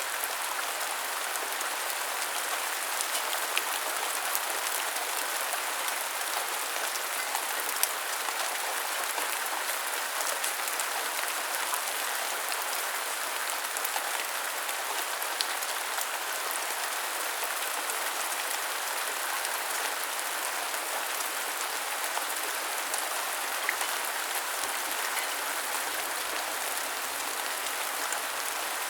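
Steady rain falling: an even hiss with many small drop taps and a few sharper ones scattered through.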